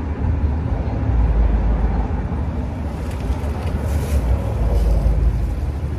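Steady low rumble of outdoor background noise, vehicle-like, with no distinct events standing out.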